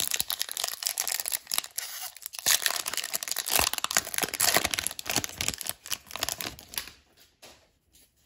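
Hockey card pack wrapper being torn open and crinkled in the hands: a dense crackling that stops about a second before the end.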